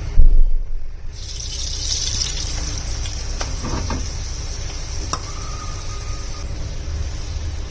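A heavy low thump, then water running steadily from a kitchen tap for about five seconds before it stops.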